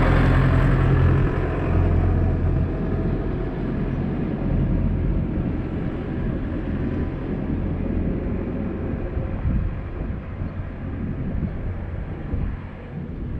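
A vehicle engine running with a steady low hum that fades after about two or three seconds, leaving a rough rumbling noise.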